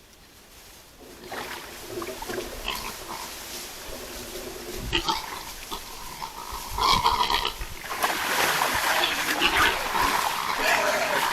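Wild boars grunting and squealing. The calls start after about a second and grow louder and busier from about seven seconds in.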